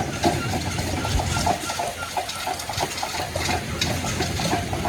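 An old engine running at a steady idle, its beat repeating about four times a second over a low rumble with some hiss.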